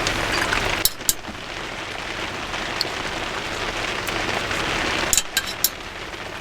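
Heavy rain drumming steadily on the roof of a garden studio, with a few sharp light clicks about a second in and again around five seconds.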